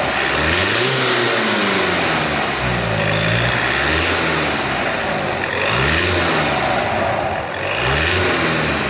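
VW Passat 2.0 TDI four-cylinder turbodiesel blipped from idle several times, each rev rising and then falling back, a few seconds apart. The engine sounds smooth and healthy, with no hissing, howling or grinding.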